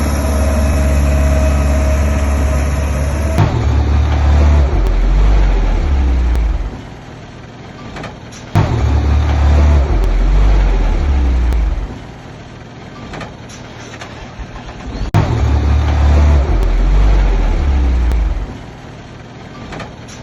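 Heavy diesel engine of earthmoving equipment running steadily, then working in loud low spells of about three seconds. Quieter stretches of about two seconds come between the spells, each spell starting abruptly, about every six and a half seconds.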